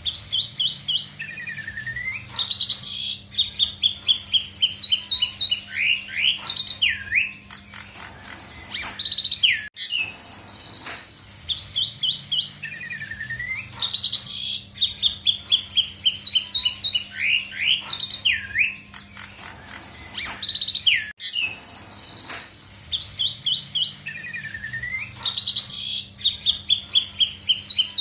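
Asian pied starling (jalak suren) singing a full song packed with mimicked notes: rapid runs of whistled notes sliding down in pitch, sweeping chirps and held whistles. The same phrase repeats almost identically about every eleven and a half seconds, as a looped recording does, over a steady low hum.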